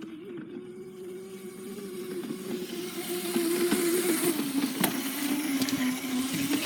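Small dirt bike engine running at a fairly steady pitch, growing louder as the bike comes closer, with a dip in pitch near the end.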